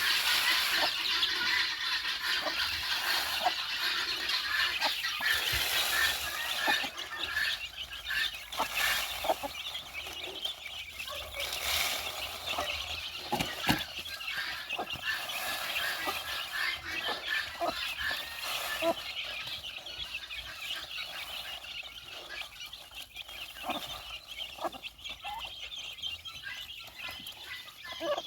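A flock of poultry, mostly chickens, clucking and calling all together, many birds at once, with scattered sharp clicks and knocks among the calls.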